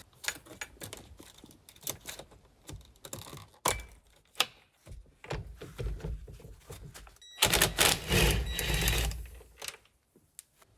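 Irregular clicks and knocks of hand tools and parts at the steering column, as a wiring connector is unplugged and the steering wheel's centre nut is worked loose. A louder rasping stretch lasts about a second and a half, about eight seconds in.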